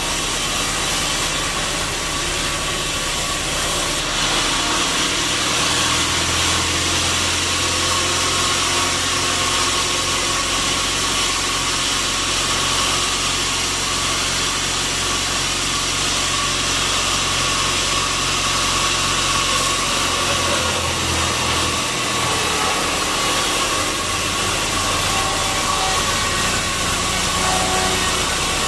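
Sawmill machinery running steadily: an even wash of noise with a steady whine, and a low motor drone that comes in about five seconds in and shifts about twenty seconds in.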